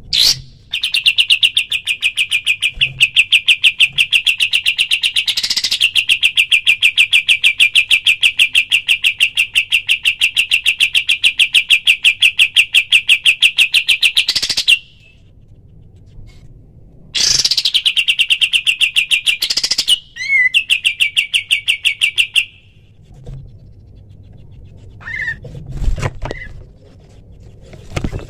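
Kapas tembak bird singing its rapid-fire 'tembakan' song: long, even, fast-pulsed trills, one running about fourteen seconds with a short break, then two shorter trills, followed by a few single chirps near the end.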